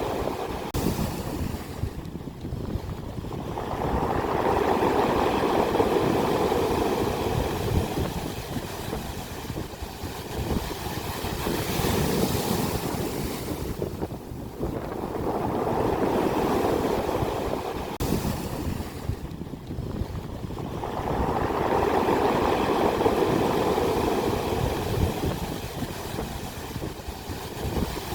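Ocean waves breaking on the shore, each one surging up and fading away, about every five or six seconds.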